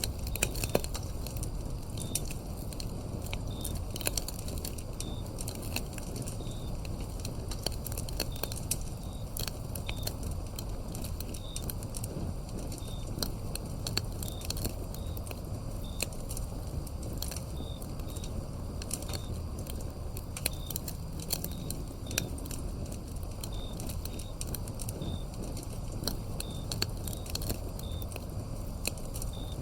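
Wood fire crackling and popping over a low steady rumble, with field insects such as crickets chirping about once a second.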